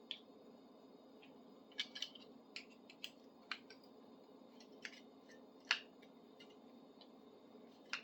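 Small metal tool parts clicking and tapping as a bladed tool is taken apart with a socket: about a dozen short, sharp clicks, the loudest about six seconds in, over a low steady hum.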